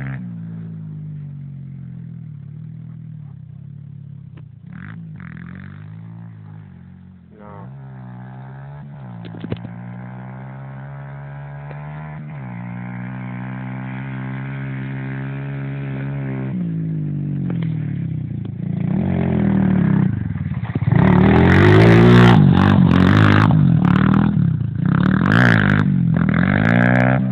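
Pit bike's small engine running at a fast idle with a few brief revs, then revved repeatedly and harder in the last third, the pitch rising and falling with each blip.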